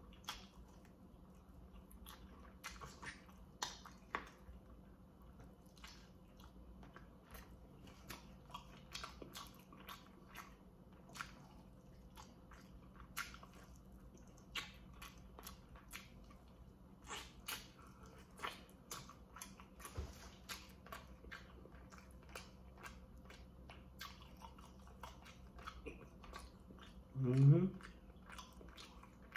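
A man chewing and biting baked chicken drumsticks, faint and wet, with many short, irregular clicks from his mouth and the meat.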